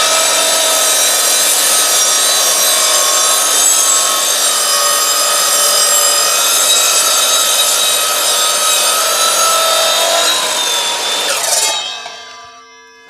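Evolution R255SMS-DB+ mitre saw running at full speed with a steady whine, its blade cutting through a 90 mm thick block of timber. Near the end the motor is switched off and the blade winds down.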